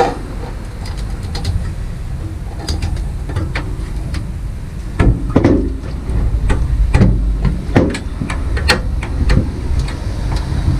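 Scattered clicks and knocks of a flexible intake pipe being handled and fitted under a diesel air heater, over a steady low rumble; the knocks come thicker in the second half.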